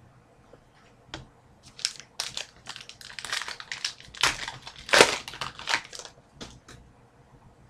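Plastic wrapper of a trading-card pack being torn open and crumpled in the hands: a run of crinkling crackles, loudest about five seconds in.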